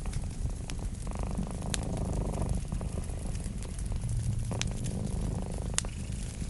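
Wood fire crackling, with scattered sharp pops, over a cat's low, continuous purring that swells and fades every few seconds.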